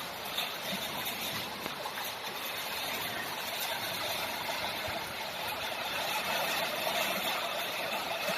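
Steady rushing wind left in the wake of a tornado that has just passed, an even noise with no distinct knocks or crashes.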